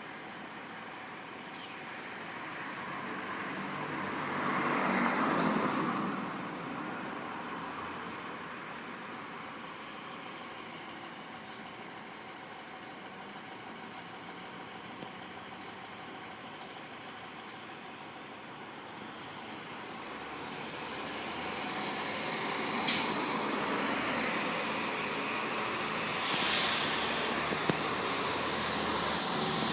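Roll-off refuse truck's engine running, with a swell in the sound about five seconds in and a single sharp clank about 23 seconds in; the engine grows louder over the last ten seconds.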